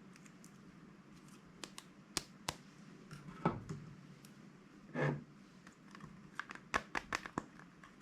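Slime being worked by hand close to the microphone: scattered small crisp clicks and crackles, with two louder, longer squishes about three and a half and five seconds in.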